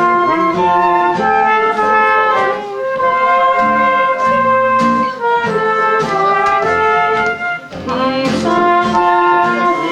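A small group of musicians playing a tune together, a brass horn holding the melody in sustained notes over guitar accompaniment with a steady beat.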